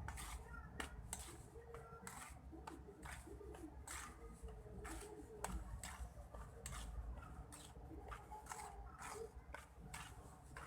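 A series of faint, irregular clicks and taps, about one or two a second.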